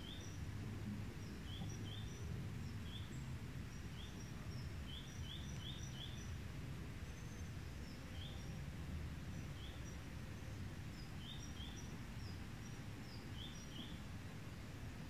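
Outdoor ambience: a bird giving short high chirps, often two or three in quick succession, every second or so, over a steady low background rumble.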